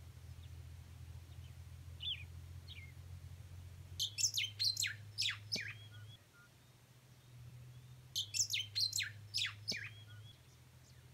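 A bird singing: a couple of single short falling calls, then two bursts of rapid, steeply falling high notes, each lasting about two seconds, one about four seconds in and another about eight seconds in.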